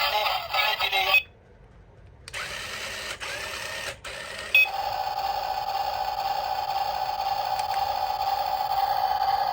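A toy's electronic tune stops about a second in. After a click a few seconds later, a small electric motor whirs steadily at a constant pitch.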